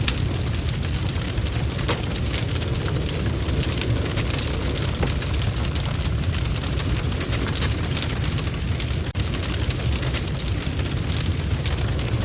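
Wood fire crackling: a steady low rumble of the flames with frequent sharp pops and snaps scattered throughout.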